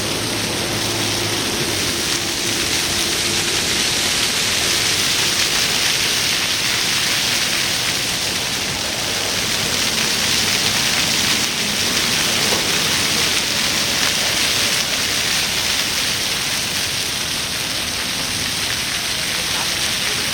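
Large outdoor fountain's water falling and splashing in a noisy, steady rush.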